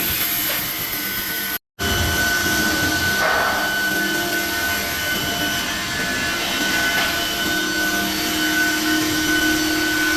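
Benso combination woodworking machine running, a steady motor whine and whirr. It cuts out for a split second just before two seconds in, then runs on.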